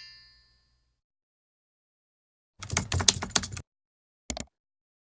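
The last notes of a piano tune die away, then silence, then about a second of rapid, irregular clicking and tapping, and one more short click near the end.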